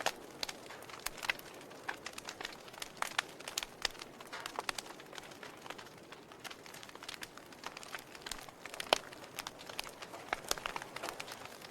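Log fire crackling in a fireplace: irregular sharp pops and snaps over a soft steady hiss, with one louder pop about nine seconds in.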